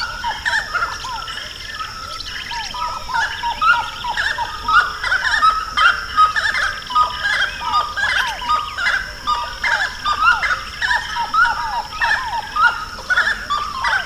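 Dense chorus of many birds calling at once: short, arching notes overlap continuously, over a steady high-pitched whine.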